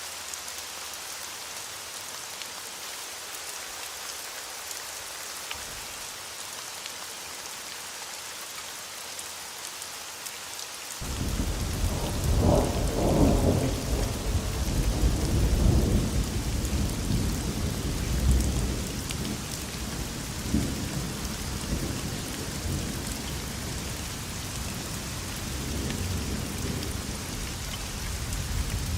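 Steady rain hissing, then about a third of the way in a clap of thunder breaks in suddenly and rolls on as a deep rumble. It is loudest in its first few seconds and then keeps rumbling more softly under the rain.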